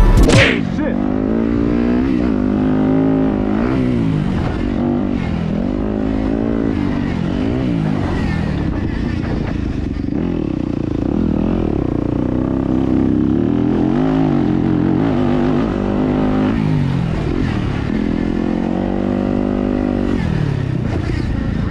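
Yamaha YZ250FX's single-cylinder four-stroke engine revving up and dropping back again and again, every second or two, as the throttle is worked on and off. There is a brief swish at the very start.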